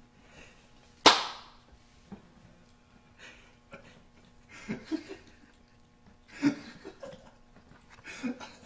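Small dog eating water-soaked kibble and freeze-dried chicken from a bowl, making wet smacking and chewing sounds. One sharp, loud smack comes about a second in, and quieter clusters of mouth noises follow a few seconds later.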